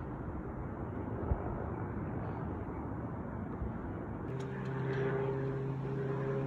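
A steady, noisy rumble. A little over four seconds in, a few sharp clicks come and a steady engine drone with several held tones sets in.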